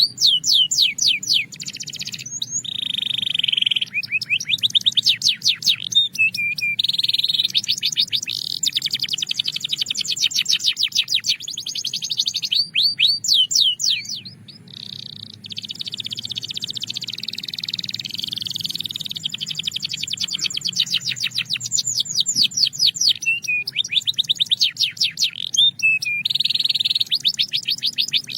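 Belgian canary singing a continuous song of fast trills and rolls, rapid repeated notes with a few held buzzy phrases, pausing briefly about halfway through.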